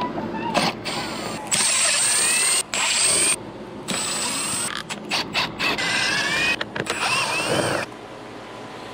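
Power tool driving fasteners in several bursts, its motor whining and rising in pitch as it spins up, with clicks of tools between the runs, as the front assembly of the Can-Am Maverick X3 is taken apart.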